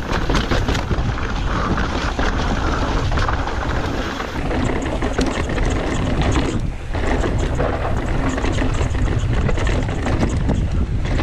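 Mountain bike running fast down a rough dirt and rock trail: wind rumbling on the microphone over a steady clatter of tyres and bike parts on the rough ground, easing briefly about two-thirds of the way in.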